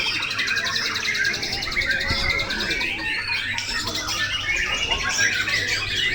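Several white-rumped shamas (murai batu) singing at once in a crowded chorus of overlapping whistles and chirps, with a fast trill over the first three and a half seconds.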